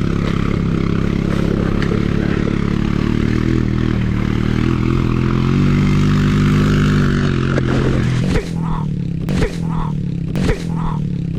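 Honda CRF70 pit bike's small single-cylinder four-stroke engine running under throttle. Its pitch climbs midway, then drops off about eight seconds in. A few sharp knocks follow, about a second apart.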